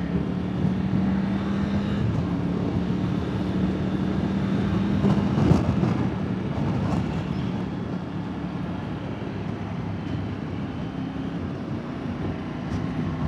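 Motorcycle engine running steadily under a constant rush of wind and road noise, heard through a helmet-mounted wireless mic on a moving bike. The noise swells briefly about five seconds in.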